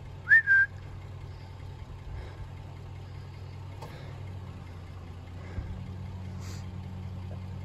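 A truck engine idling with a steady low hum, and a short whistle that rises and then holds about half a second in.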